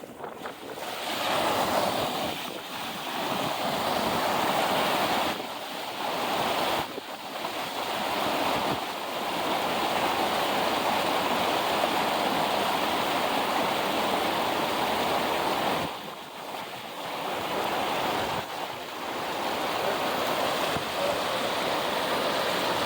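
Rough surf raised by Hurricane Erin: a steady rush of breaking waves and washing water, which eases briefly a few times.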